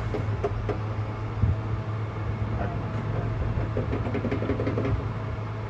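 Steady low mechanical hum with scattered metallic clicks and light knocks, the loudest knock about a second and a half in and a cluster of clicks about four to five seconds in.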